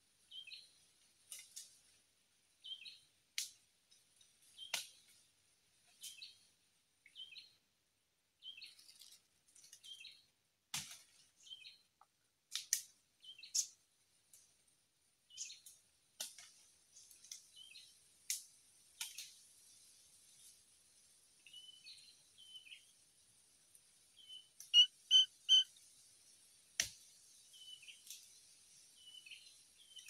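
Small birds in undergrowth giving short, high chirps about once a second, mixed with sharp ticks. About five seconds before the end, four loud, clear whistled notes come in quick, even succession.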